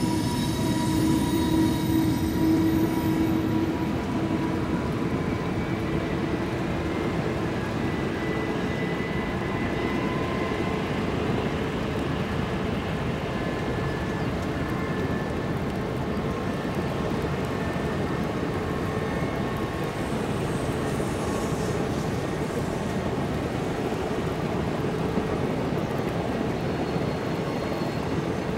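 Shinkansen train running: a steady rumble with faint whining tones, the clearest of them in the first few seconds.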